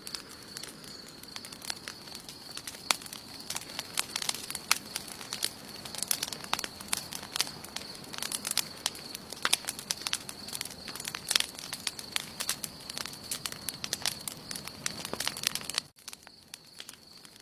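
Wood campfire burning, with dense irregular crackling and sharp pops from the burning wood over a steady high-pitched tone. The sound drops off abruptly about sixteen seconds in, and the crackling then goes on more quietly.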